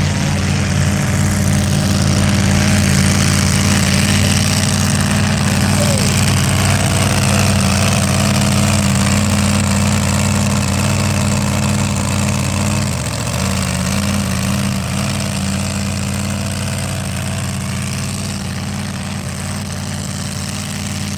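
A truck's engine running loudly and steadily under a truck pull. The drone breaks briefly about two-thirds of the way through, then runs on and slowly fades.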